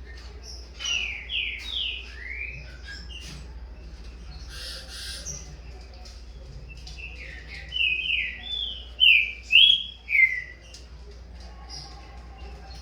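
Green-winged saltator (trinca-ferro) singing: two phrases of loud, falling whistled notes, the second phrase louder, as a young bird and its father trade song.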